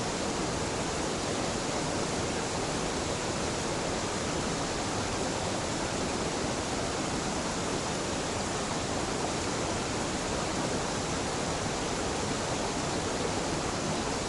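Waterfall where a mountain stream meets a river: a gentle fall of water rushing and splashing in a steady, unbroken roar.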